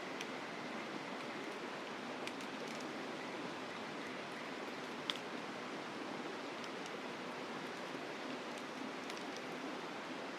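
Mountain river flowing with a steady rush, with occasional faint clicks and one sharper pop about five seconds in.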